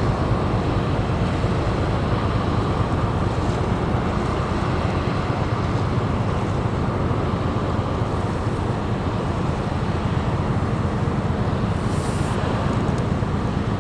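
Steady low drone of a Ro-Ro passenger ferry's engines as the ship casts off and gets under way, holding an even level throughout.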